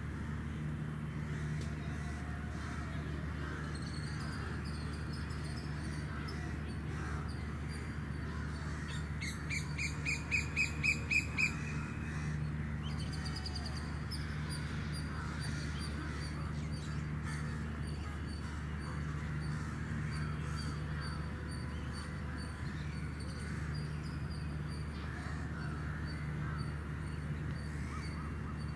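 A bird calling a quick run of about six harsh notes some ten seconds in, over a steady low hum, with faint high bird chirps afterwards.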